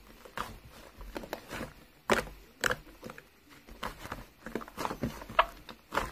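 A run of irregular light taps and knocks close to the microphone, several a second, with the sharpest knock about two seconds in.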